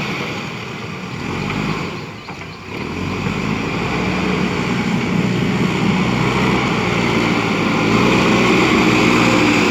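Diesel engine of a JCB backhoe loader running under working load. It eases off briefly about two seconds in, then picks up again and revs higher near the end.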